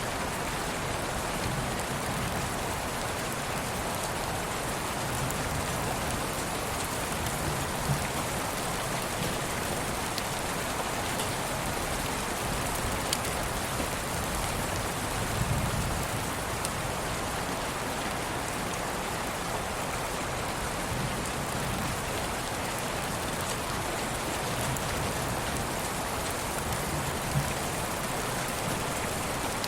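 Steady rain, an even hiss with a few sharper drop ticks and a soft low swell about halfway through.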